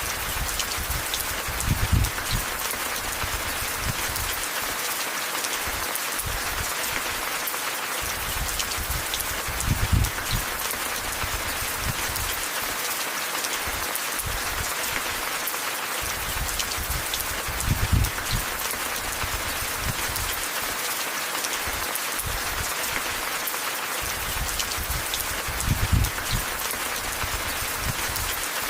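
Steady rain falling, a dense patter of drops. Four short, deep rumbling swells come at even intervals of about eight seconds and are the loudest moments.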